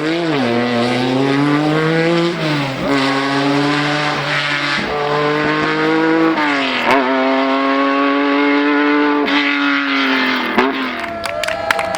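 Historic rally car engine accelerating hard through the gears, its pitch climbing steadily in each gear and dropping sharply at each of about five upshifts.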